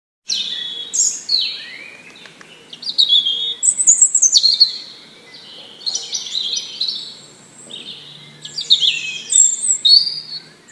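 Songbirds chirping and singing in short, quick high phrases with brief pauses between them.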